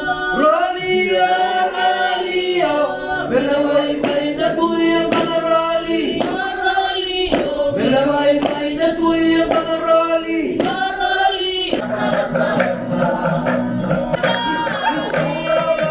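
A group of voices singing together in harmony, with a steady beat of sharp strikes under the song for much of it, at a Fijian kava ceremony.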